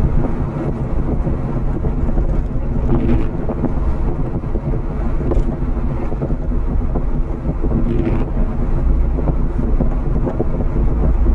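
Subaru Forester driving along a rough dirt trail, heard from inside the cabin: a steady engine drone with tyre and body rumble, and a few brief knocks.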